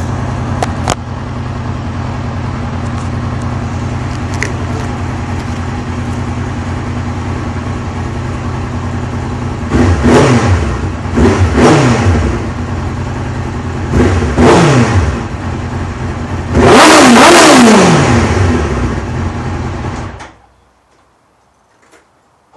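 1997 Suzuki GSX-R 750 SRAD's inline-four, fully warmed up, running through a D&D aftermarket exhaust: idling steadily, then revved in five quick blips and one longer rev held for about a second and a half, each falling back to idle. Near the end the engine is switched off and the sound cuts out.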